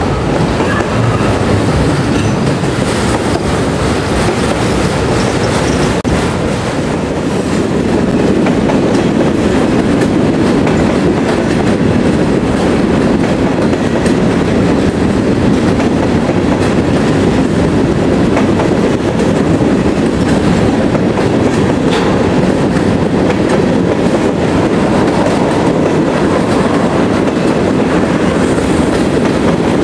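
Freight train cars (autoracks, then covered hoppers and tank cars) rolling past close to the track: a steady rumble and clatter of steel wheels on the rails.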